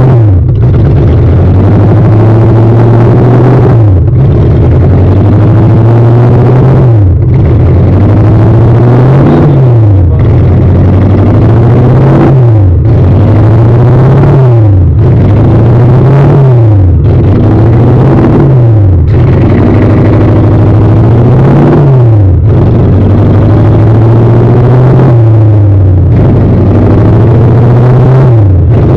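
Toyota 1UZ-FE V8 engine in a GAZ-24 Volga, loud and repeatedly revving: the pitch climbs, then drops sharply back, about every two to three seconds.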